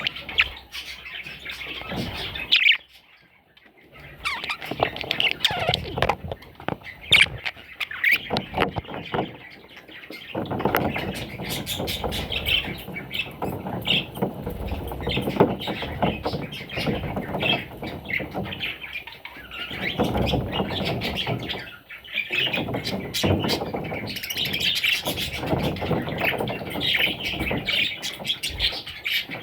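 Budgerigars chirping and chattering with short squawks, a busy run of quick calls with a brief lull about three seconds in.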